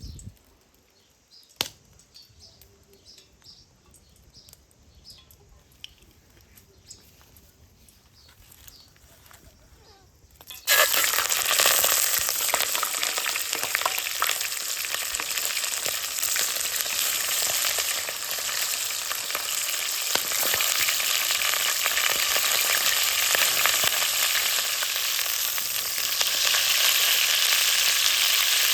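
Quiet at first with faint ticks and one sharp click, then food frying in hot oil in a pan. The loud sizzle starts suddenly about ten seconds in and keeps going steadily.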